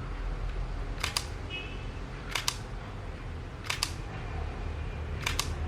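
Canon EOS M50 shutter firing four times, about one and a half seconds apart, each shot a quick double click. It is being test-fired after the shutter unit and mainboard repair and is working normally.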